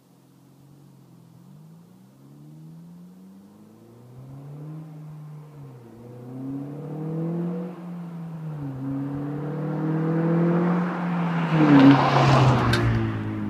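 2012 Honda Civic Si's 2.4-litre four-cylinder, breathing through a Tsudo cat-back exhaust and Injen short-ram intake, accelerating hard through the gears. Its pitch climbs and drops at each of several shifts, and it grows louder as it approaches, loudest about twelve seconds in as it passes, then falls away.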